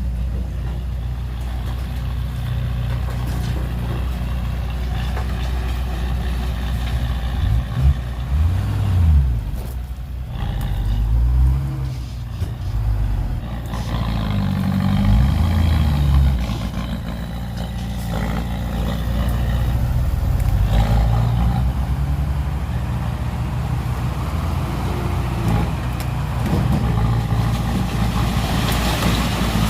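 Heavy diesel engines of dump trucks and a bulldozer running steadily, the engine pitch rising and falling several times in the middle stretch as the machines are throttled up and down.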